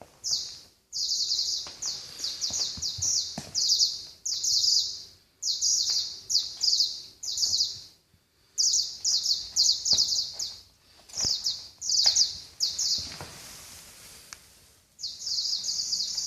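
Electronic toy mouse chirping: rapid, high-pitched trilled chirps in bursts of about a second, stopping and starting again, with a few faint knocks between bursts.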